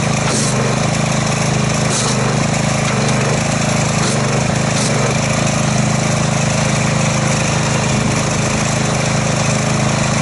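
Gas-engine pressure washer running steadily, its water jet hissing as it sprays into a bucket of car-wash soap solution to whip up suds.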